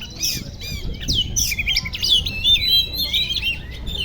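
Oriental magpie-robin (kacer) singing: a busy, unbroken string of whistles, sliding notes and harsh chattering calls, with a quick trill a little over a second in.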